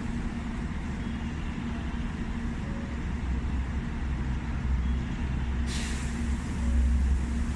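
Shinkansen 700-series train standing at the platform, its equipment giving a steady low hum, with a short hiss about six seconds in.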